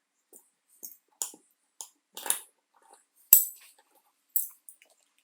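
A string of separate sharp clicks and short scrapes, about ten in all, from hand tools and parts being handled; the loudest is a sharp clack about three seconds in.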